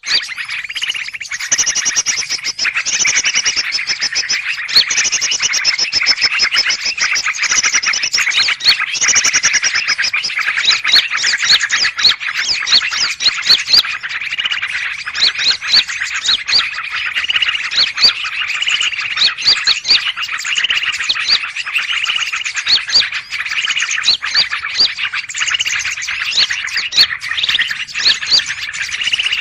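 Dense, continuous chattering of many small birds chirping and trilling over one another, a 'ribut' bird-trapping lure recording of a noisy bird gathering, used to draw in greater green leafbirds (cucak ijo).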